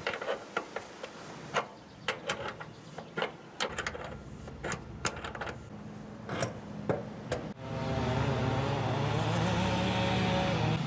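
Irregular clicks and knocks, then a steady machine hum starts about three-quarters of the way through and runs loudly.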